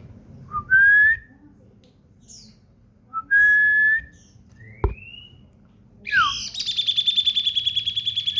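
Common iora singing: two clear whistled notes, each rising and then held, a short upward slur, and near the end a long rapid trill of about a dozen notes a second. There is a single sharp tap about midway.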